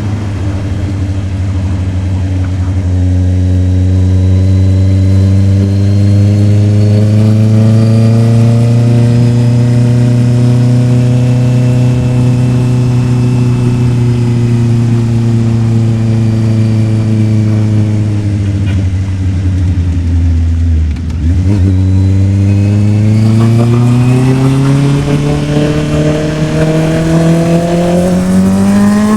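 Honda CB650R's inline-four engine running at road speed, its revs slowly rising and then easing off. About two-thirds of the way through they dip sharply for a moment, like a gear change or the throttle shut, then climb steadily under acceleration.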